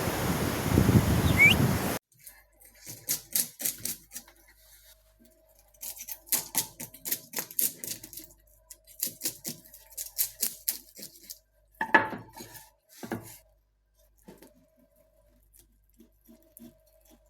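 Wind and surf for about two seconds, then a sudden cut to quiet rooms sounds: groups of short, sharp snips and clicks from scissors cutting, with a louder clack about ten seconds in.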